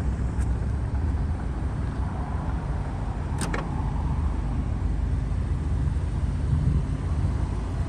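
Power liftgate of a 2015 Audi Q3 closing under its motor and latching with a sharp click about three and a half seconds in, over the steady low hum of the idling 2.0-litre turbo four-cylinder.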